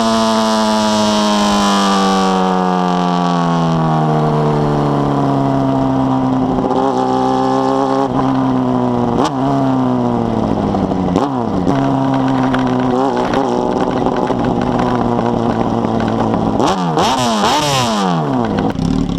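Honda Hornet motorcycle's inline-four engine through a 4-into-1 exhaust, its note falling steadily as it slows down, then several quick dips and rises in pitch, and near the end revving up with the pitch climbing in a few fast sweeps.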